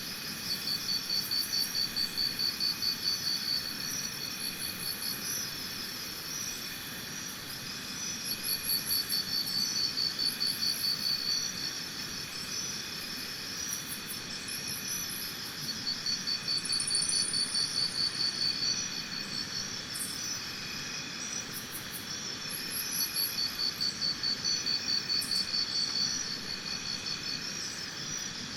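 Insect chorus: a steady high shrilling of several tones. A louder pulsing trill, about five pulses a second, comes back four times for two to three seconds each. A few faint short high chirps sit above it.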